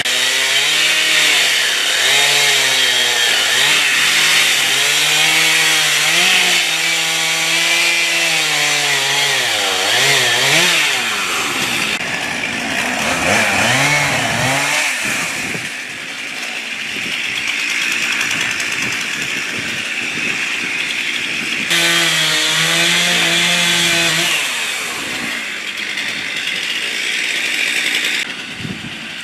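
Two-stroke chainsaw running and revving up and down as it cuts, with a rasping buzz. It eases back to a lower, rougher running note between bursts, and makes one more hard rev a little past the middle.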